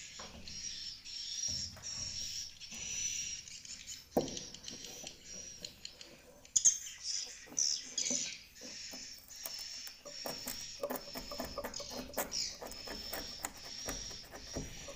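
Swiftlets twittering in quick repeated high chirps, mixed with scattered clicks and knocks, a sharper knock about four seconds in and a cluster of louder clicks just past the middle.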